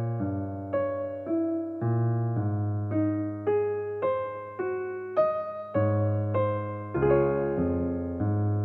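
Gentle solo electric piano music: single notes and chords struck about twice a second, each ringing and fading, in a slow melodic line.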